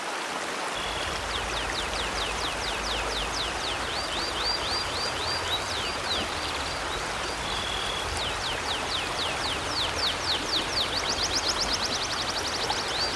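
River water flowing steadily. From about a second in, a small bird sings rapid runs of short chirps, several a second, over the water.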